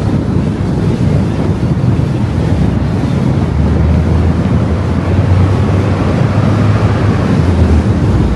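A car driving at speed: steady rumble of tyre, road and wind noise, with a low drone coming in about three and a half seconds in.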